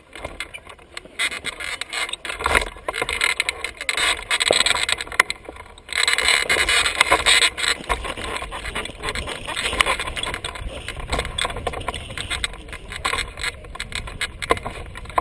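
Wind buffeting the microphone: a gusty rushing noise with low rumble that rises and falls unevenly, strongest from about six seconds in.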